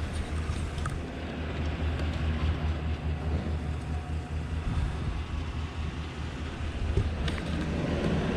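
Vehicle engine running at idle: a steady low rumble.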